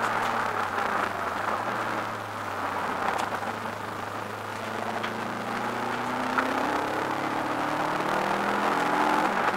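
Subaru Impreza WRX's turbocharged flat-four engine heard from inside the cabin under racing. The engine note drops as the car lifts off for a corner, then climbs steadily under acceleration out of it, with a sudden drop in pitch near the end at an upshift.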